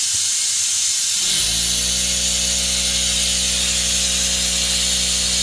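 Compressed air from an air compressor hissing loudly and steadily through a shower hose, blowing the water out of the hot-water pipes for a winter drain-down. About a second in, the compressor's motor starts and runs on with a steady hum under the hiss.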